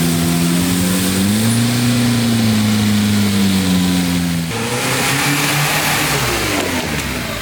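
Off-road 4x4 competition vehicle's engine running hard, its revs rising and falling. About halfway through, the steady note gives way to a rougher noise as the pitch falls away.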